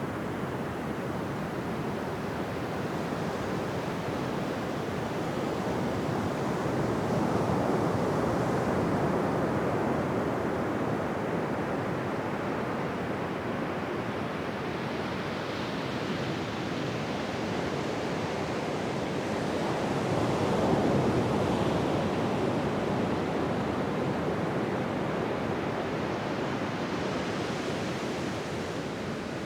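Ocean surf breaking and washing up a beach: a continuous rush of waves that swells louder twice, about a quarter of the way in and again about two-thirds of the way through.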